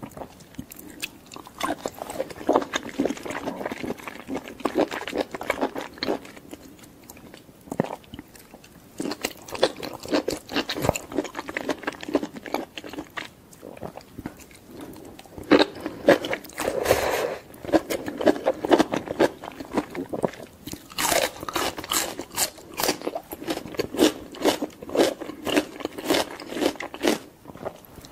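Close-up mouth sounds of biting into and chewing boiled mushrooms, including enoki, as a dense run of crunchy bites and wet chewing.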